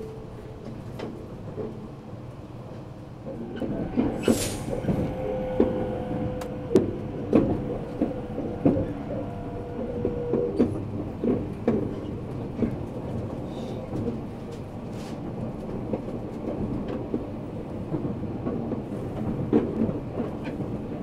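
E257 series electric train running at speed, heard from inside the passenger car: steady running noise with wheels clattering over rail joints and points, louder from about three seconds in. There is a brief high squeal about four seconds in and a steady hum held for several seconds after it.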